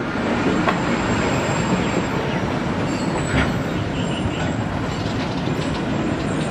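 A long train of red covered goods wagons running past beneath, a steady rumble of steel wheels on rail with occasional clicks at the rail joints and a faint high wheel squeal.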